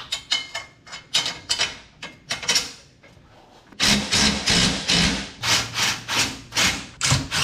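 Steel turbo exhaust tubing being worked into place by hand: a few short scrapes and knocks, then from about four seconds in a run of rapid scraping strokes, about three a second.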